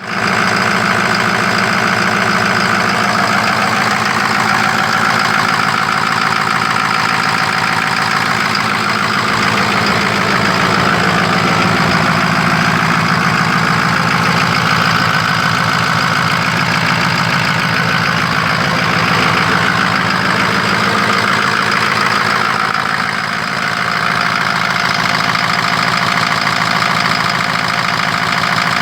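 Truck engine running steadily at idle, back in running order.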